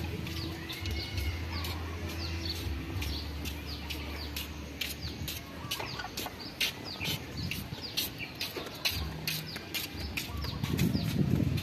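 Birds chirping steadily in many short, quick, falling chirps, with sharp wet clicks from a cat chewing and licking rice close by.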